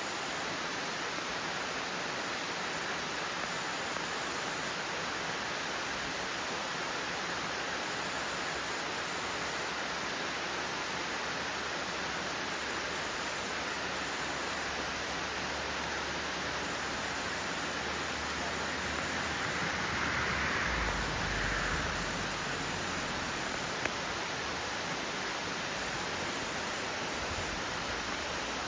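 Steady rush of a waterfall spilling over rocks at low flow, swelling slightly about twenty seconds in.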